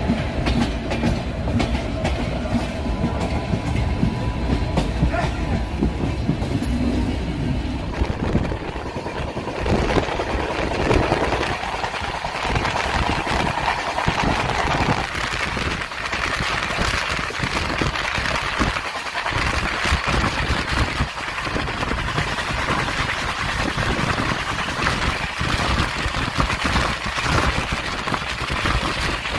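Express passenger train running on the rails, with steady rumble and rapid clicking of wheels over the track. A louder rushing noise comes in about ten seconds in.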